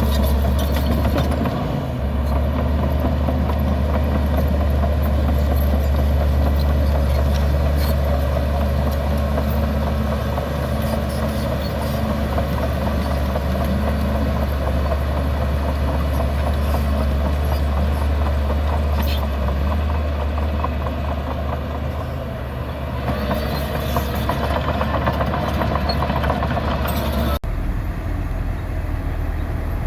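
Heavy diesel engine of earthmoving machinery running steadily with a deep drone. Near the end the sound breaks off for an instant and comes back with a slightly different tone.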